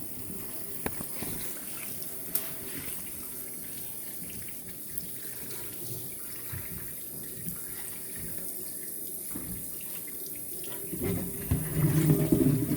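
Tap water running into a kitchen sink over a cast iron skillet being rinsed, with a few light clicks. It gets louder and fuller near the end.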